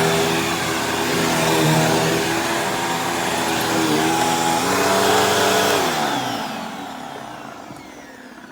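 Bissell CleanView Helix Deluxe upright vacuum running with a steady motor whine and a brushroll the owner calls a little loud, which he puts down to its brand-new belt. About six seconds in it is switched off and the whine falls in pitch and fades as the motor spins down.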